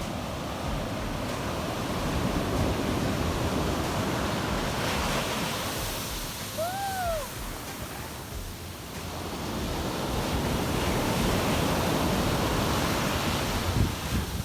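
Large sea waves surging and breaking on a beach, the roar swelling and ebbing in two long surges, with wind buffeting the microphone. About seven seconds in, a brief high call rises and falls once over the surf.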